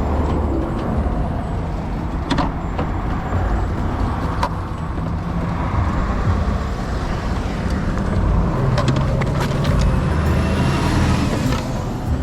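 Ducati Supersport 950's L-twin engine running, with steady wind noise over the microphone and a few sharp clicks.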